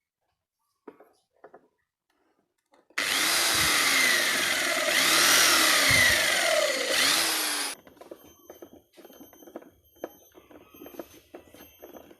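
A small electric power tool runs for about five seconds, its motor pitch dipping and recovering several times as it works, then stops. Faint clicks and handling noise follow.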